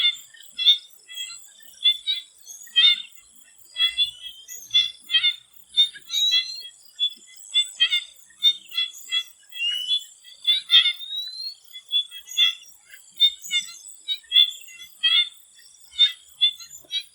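Chorus of swamp frogs calling, many short calls overlapping a fraction of a second apart, with a few short rising calls among them. Behind them runs a steady high insect drone.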